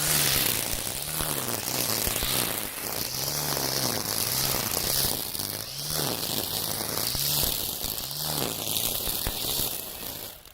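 Makita 40V cordless brush cutter spinning Oregon FlexiBlade nylon trimmer line through tall weeds. Its pitch dips and recovers over and over as the line bites into the growth, then the sound cuts off suddenly at the end.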